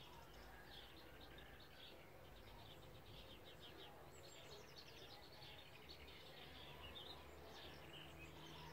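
Faint birdsong: many short chirps and quick trills from small birds, over a low steady hum.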